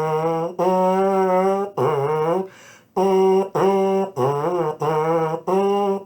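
A trombone/baritone mouthpiece buzzed on its own, playing a simple children's tune as a string of short notes. The notes step between two nearby pitches with short breaks between them, and a few notes waver and bend in pitch.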